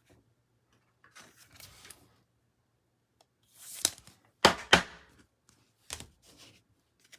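Trading cards being handled: short rustles as cards slide against each other, and several sharp clicks as cards are tapped or set down, the loudest two close together about halfway through.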